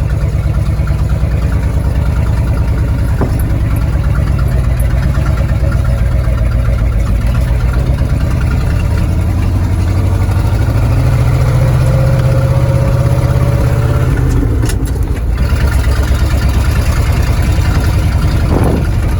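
Old Ford F-250 Highboy pickup's engine running as the truck is driven slowly over snow. The engine note rises and holds for a few seconds past the middle, then drops back.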